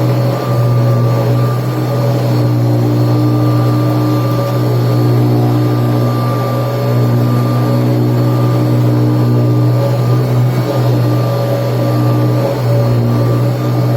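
Kirby Tradition upright vacuum cleaner running steadily, a loud constant motor hum with steady whining tones above it.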